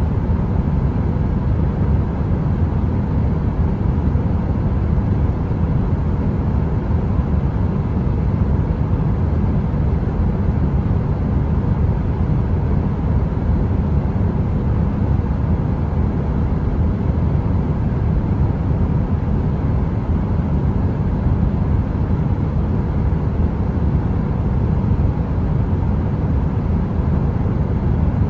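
Steady, deep rumbling noise of a heater, weighted to the low end like brown noise, with no crackle and no change.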